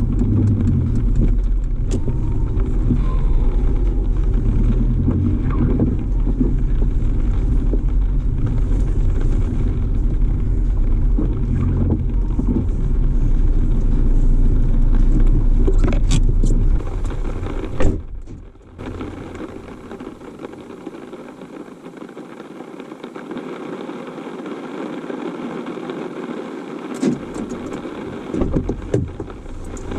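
Car running with a steady low rumble in the cabin for most of the first half; a sharp knock about 18 seconds in and the rumble stops, leaving a quieter background with a few clicks near the end.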